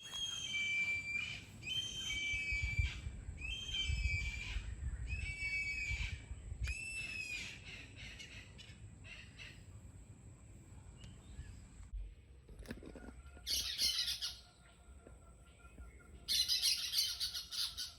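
A bird giving harsh, repeated squawking calls, about one a second for the first seven seconds. Later come two short bursts of dense, high chattering over a faint steady high tone.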